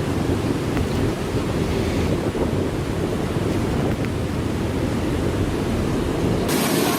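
Strong wind buffeting the microphone over heavy seas and breaking waves, a dense steady rush. About six and a half seconds in it cuts abruptly to a thinner, hissier recording.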